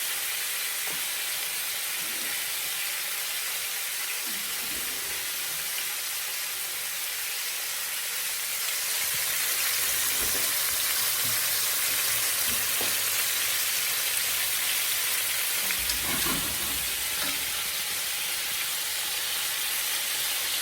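Chicken pieces frying in hot oil in a pan, a steady sizzle that grows a little louder about nine seconds in.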